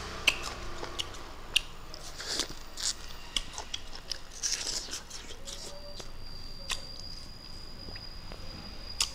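Close-up biting and chewing of a crisp raw green vegetable: irregular sharp crunches and wet mouth clicks. About six seconds in, a steady high-pitched tone comes in and holds.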